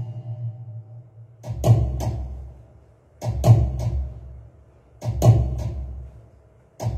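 Three evenly spaced drum strokes, each with a deep boom and a sharp click on top, dying away between hits, as a break in the musical accompaniment.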